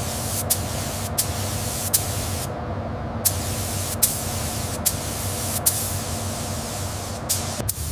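Steady spraying hiss with a faint steady hum under it, broken by sharp clicks about once a second; the hum stops shortly before the end.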